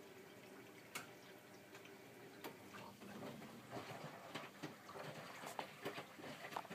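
Miele W562 front-loading washing machine in the main wash: water dripping and splashing in the drum, with irregular small clicks and splashes that grow busier from about three seconds in.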